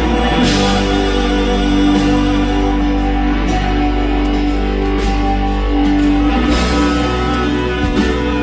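Live band music in a stretch without singing, steady held notes over a sustained low bass, with short percussive hits on top.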